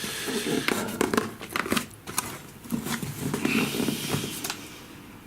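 Cardboard box and packaging being handled and opened: rustling with many sharp clicks and taps.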